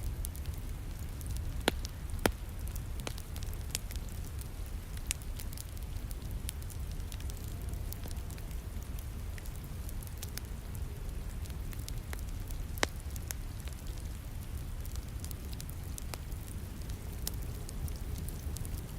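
Wood fire crackling in a fireplace, scattered sharp pops over a steady hiss and low rumble of falling rain. Two of the loudest pops come close together about two seconds in, and another about two-thirds of the way through.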